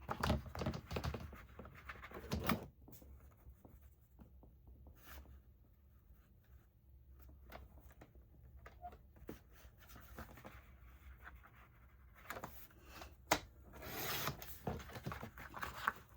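Paper rustling and sliding as a sheet is handled and lined up, with scattered clicks, then a paper trimmer's blade drawn along it to cut, a rasping swish near the end.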